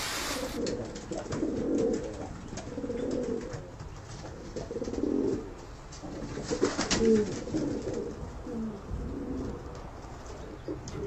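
Racing homing pigeons cooing, repeated low throaty phrases overlapping one another. A few sharp clicks come about seven seconds in.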